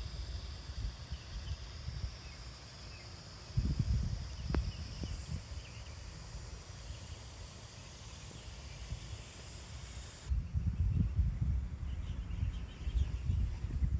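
Outdoor garden ambience: gusty wind rumbling on the microphone, with faint bird chirps and a steady high hiss that stops abruptly about ten seconds in. A single sharp click comes a few seconds in.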